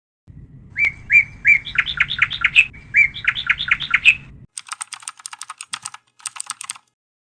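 A bird chirping: a run of quick repeated call notes, then a fast, rattling chatter of clicks near the end.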